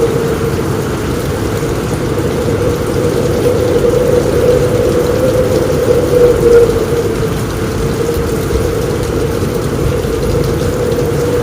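Heavy rain on a roof, a steady dense hiss with a deep rumble underneath.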